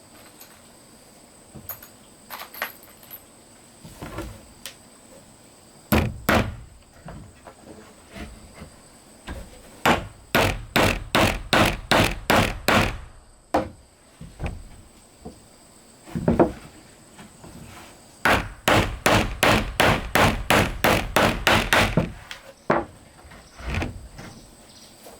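Hammer striking wood, driving nails: a few single blows, then two quick runs of about four strikes a second.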